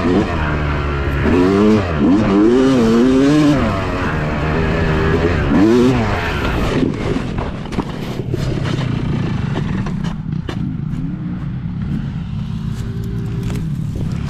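Yamaha YZ250 two-stroke dirt bike engine revving up and down repeatedly while riding, then running at lower, steadier revs through the second half, with scattered short knocks.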